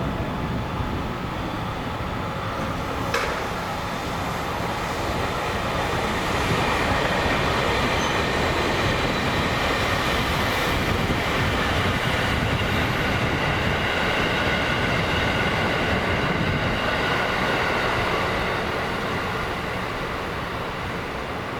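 JR Central 311 series electric train running on the track: a steady rumble with several high, steady tones above it, louder from about six seconds in and fading over the last few seconds. A single sharp click comes about three seconds in.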